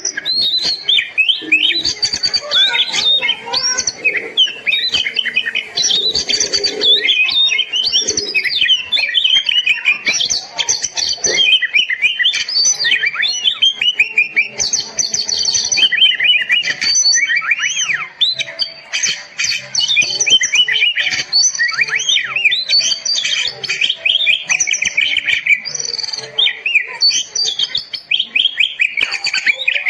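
Oriental magpie-robin (kacer) singing a loud, continuous, varied song of rapid whistles, chirps and quick up-and-down notes, in full vigorous song.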